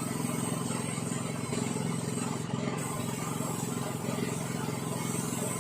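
Engine of a Yanmar Je-80HE snowblower running steadily at an even speed, with its carburettor replaced and the machine back in running order.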